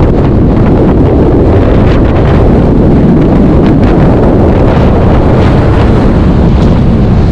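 Very strong wind battering the microphone: a loud, steady rumble of wind noise.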